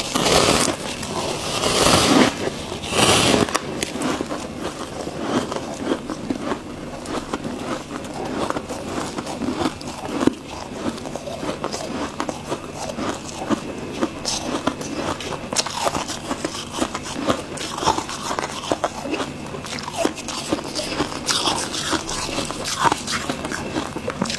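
A person biting and chewing freezer frost: close, dense crunching and crackling of ice, with a few louder bites in the first few seconds.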